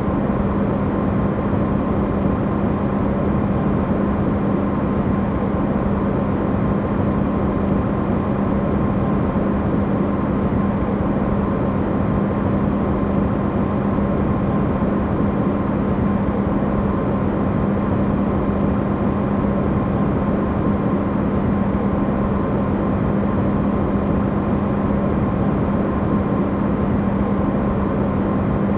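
Electrolux refrigerator running, recorded amplified as white noise: a steady low hum with an even rushing noise beneath it, unchanging throughout.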